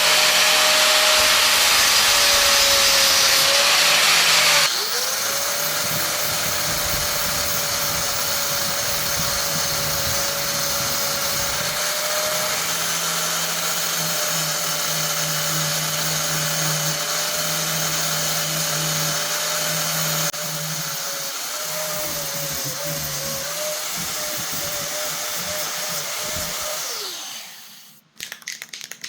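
An electric power tool running with a steady motor whine over a harsh hiss, loudest for the first few seconds and then a little quieter. Near the end the motor spins down and stops.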